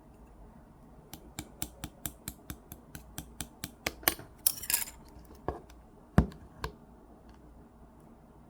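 A quick, even run of sharp clicks, about three or four a second, then a short rustle and a few single clicks, with one loud knock near the middle.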